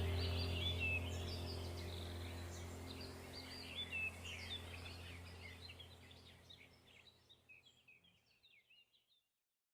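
Small birds chirping and warbling over a low steady hum, the whole sound fading out to silence in the last couple of seconds.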